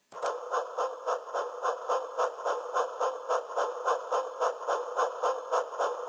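Rhythmic train-like chugging, about three beats a second over a steady hum, starting suddenly just after the start and running on evenly.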